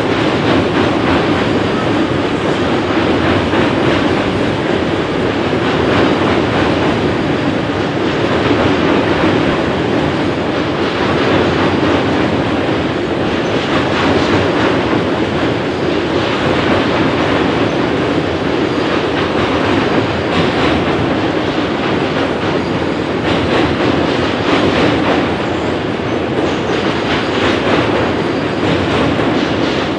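Freight cars of a long train rolling past, covered hoppers and then autorack cars: a steady rolling rumble of steel wheels on rail, with occasional clacks.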